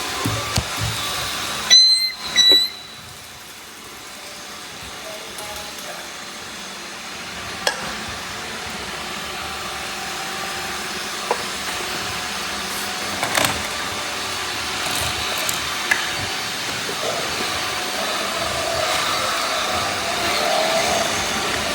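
Many robot vacuum cleaners running together, a steady whirring hiss of motors and brushes. About two seconds in come a few loud electronic beeps, and later there are occasional clicks and knocks, such as the robots bumping into things.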